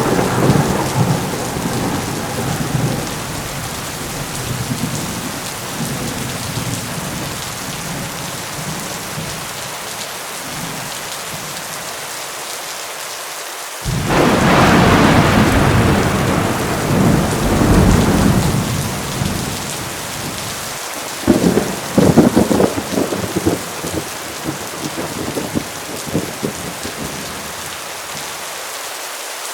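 Heavy rain pouring steadily through rolling thunder. A rumble dies away over the first several seconds, then a new peal starts suddenly about halfway through and rumbles for several seconds, followed by a few sharp cracks that fade out.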